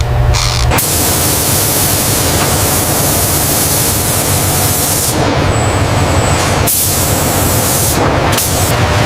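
Loud, steady rushing noise, like machinery or air blast, that changes character abruptly about five, seven and eight seconds in.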